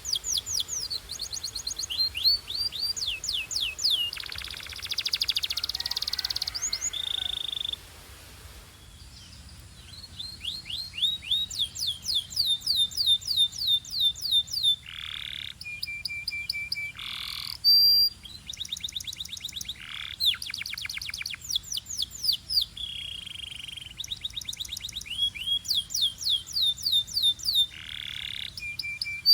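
A canary singing a long, varied song: fast runs of repeated falling notes at several pitches, broken by buzzy rolls and short held whistles. There is a brief pause about eight seconds in.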